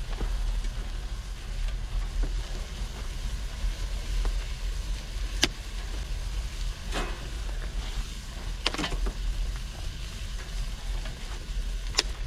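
Wet firewood burning in the firebox of an outdoor wood furnace, hissing and sizzling over a steady low rumble, with a few sharp pops and crackles.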